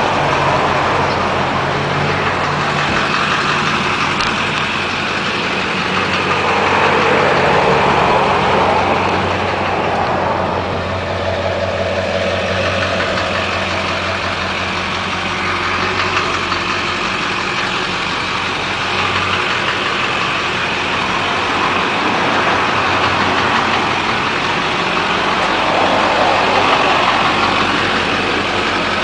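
Chevy Silverado 2500HD's 6.6L Duramax V8 turbo diesel running at idle, a steady hum with a couple of gentle swells in level.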